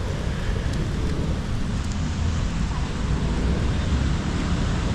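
Wind buffeting the microphone: a steady rumbling noise, strongest at the low end.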